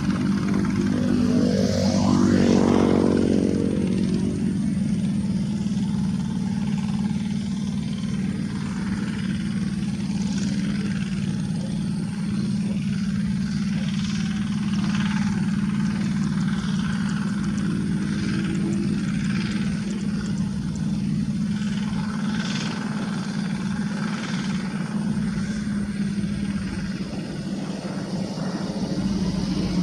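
Diesel engine of a two-wheel hand tractor with a rotary tiller, running steadily under working load, with one brief rise and fall in pitch about two seconds in.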